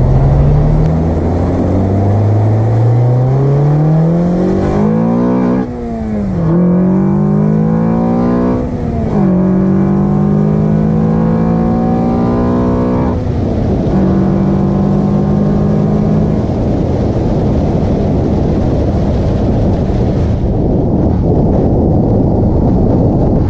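Car engine fitted with an Acuity cold air intake accelerating hard, its pitch climbing and dropping back at each of about three gear changes, then holding steady. Over the last third the engine note gives way to even road and wind noise.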